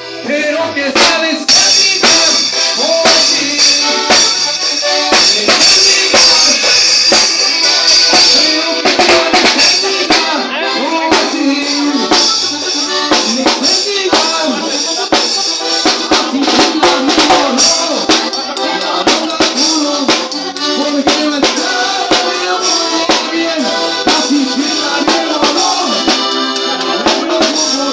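Norteño band music with a steady drum-kit beat of snare and bass drum under melodic instruments.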